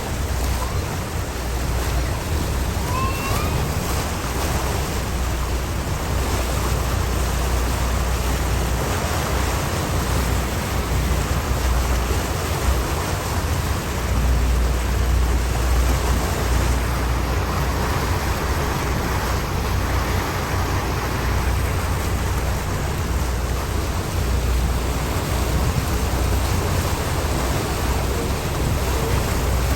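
Tour boat moving slowly on open water: a steady rush of wind and water with a low rumble underneath.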